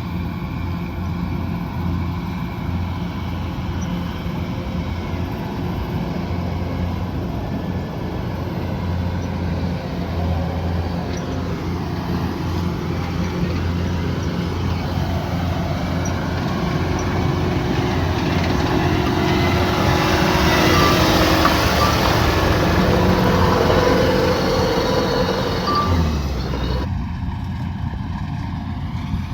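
Kubota DC108X combine harvester running steadily with a low engine hum. About two-thirds through it grows louder and hissier for several seconds, and the sound changes abruptly near the end.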